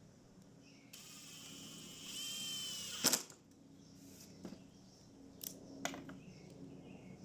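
A small motorized hand tool whirs for about two seconds and stops with a sharp click, followed by a few lighter knocks and taps of work.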